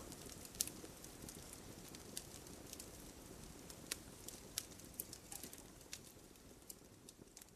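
Wood fire crackling: irregular sharp pops and snaps over a soft low rumble of burning, with a louder pop about half a second in. It grows a little quieter near the end.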